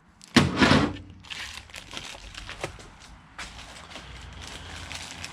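Packaging being crinkled and torn open, with a loud rustle about half a second in, followed by small clicks and handling noise of parts.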